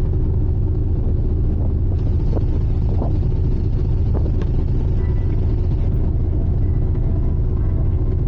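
Drift-ice icebreaker Aurora underway: a steady low rumble, with a few faint sharp cracks about two to four and a half seconds in.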